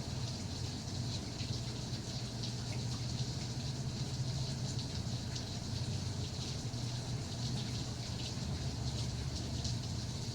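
Steady rain falling: an even hiss scattered with many small drop ticks, over a low steady rumble.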